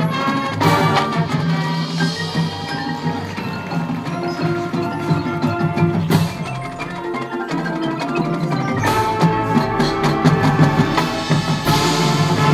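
High school marching band playing its field show music, with mallet percussion such as marimba and bells prominent in struck, ringing notes. Deep low notes swell in about two-thirds of the way through.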